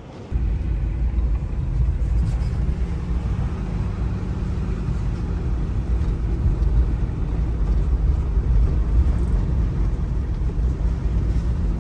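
Steady low rumble of an off-road vehicle driving on a dirt trail: engine and tyre noise with no distinct tones. It cuts in abruptly just after the start.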